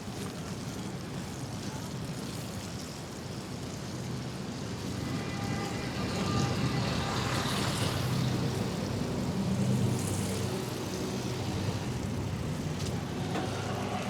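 Street traffic heard from a moving bicycle. A motor vehicle's engine hums close by and grows louder about five seconds in.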